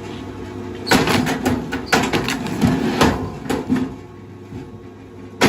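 A run of irregular knocks and clunks, several sharp hits close together, over a steady low hum; it quietens near the end.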